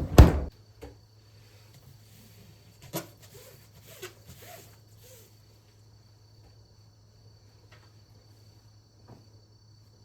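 A heavy thud, like something shut or set down, then a few lighter knocks and soft handling sounds.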